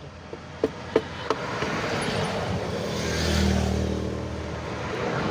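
A motor vehicle passing on the road, its engine hum and tyre noise swelling to a peak past the middle and easing off. A few sharp clicks come in the first second and a half.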